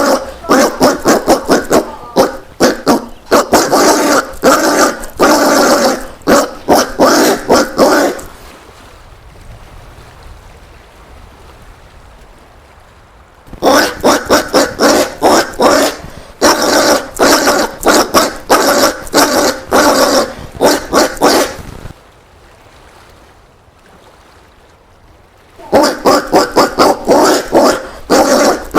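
Collared peccary calling in rapid series of gruff pulsed grunts, in three bouts broken by two pauses of several seconds.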